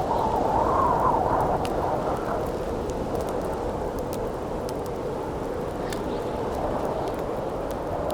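Winter wind blowing steadily, swelling in a gust over the first couple of seconds, with the scattered sharp crackles of a wood campfire over it.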